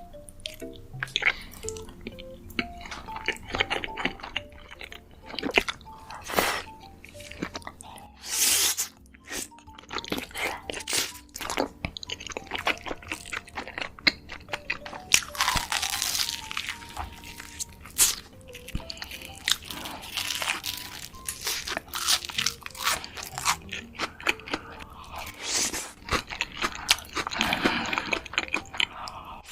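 Close-miked eating: crunchy bites and chewing, with many sharp crackles, over soft background music.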